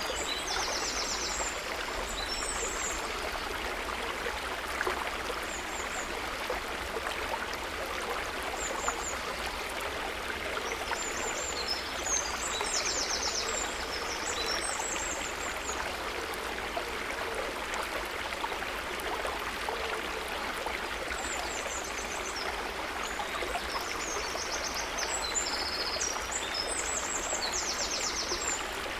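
River water running steadily, with a songbird singing high, quick trilled phrases in three bouts: near the start, in the middle, and toward the end.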